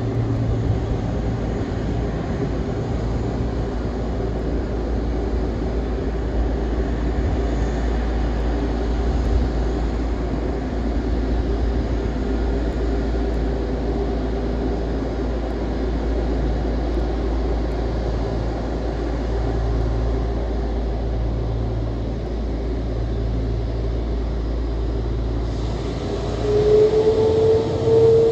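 Airbus A330 jet engines running with a steady low rumble and a steady whine. Near the end the whine rises in pitch and the sound grows louder, as the engines spool up.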